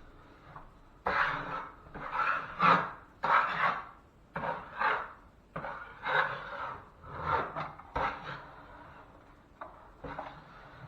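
Repeated scraping strokes of a hand tool against a hard surface, about one stroke a second for seven seconds, then a few fainter ones.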